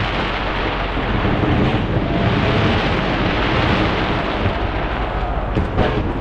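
Dense fireworks barrage: a continuous rolling rumble of overlapping bursts and crackling, with a couple of sharper bangs near the end.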